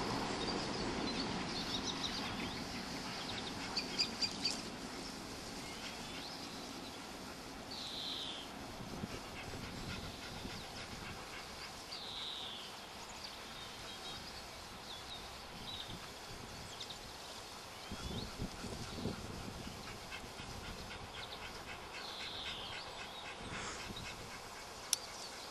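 Outdoor ambience with a bird giving short, falling high calls every few seconds over a steady hiss, with a few clicks and low rustles.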